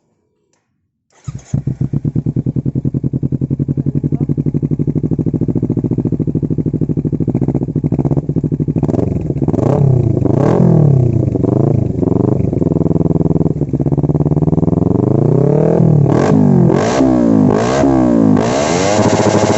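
Kawasaki Ninja 250 FI motorcycle engine starting about a second in and idling through an aftermarket Akrapovic carbon-look exhaust, then revved in a series of quick throttle blips, each rising and falling, from about halfway on.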